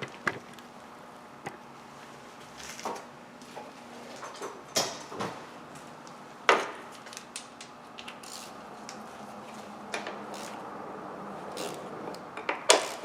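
Metal hand tools clinking and clanking against engine parts while bolts on an engine-bay bracket are loosened: a handful of scattered sharp clicks, the loudest a quick pair near the end.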